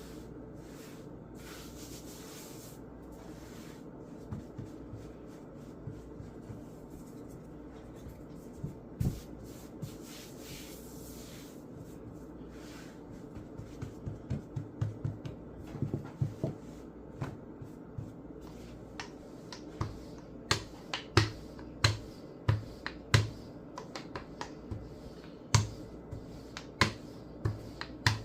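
Irregular light taps and knocks of hands and utensils working on a kitchen counter. They are sparse at first, then come faster and louder through the second half, over a steady low hum.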